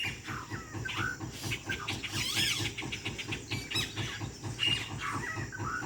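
Yellow-rumped caciques (japins) calling at their nesting tree: a varied mix of short whistles, chirps and trills, typical of this mimicking species. A steady low rumble runs underneath.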